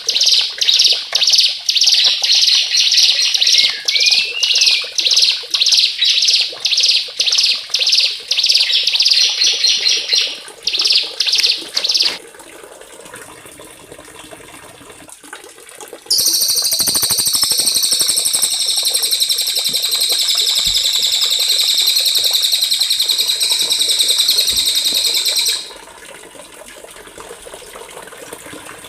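Small songbird song used as masteran: a run of loud, sharp, high notes repeated about twice a second for the first twelve seconds, then, after a short gap, one long continuous high trill lasting about nine seconds. A faint watery background sound lies under it.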